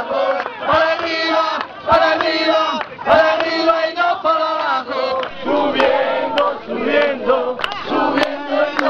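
A group of voices chanting and shouting together in short phrases, about one a second, with a few sharp clicks near the end.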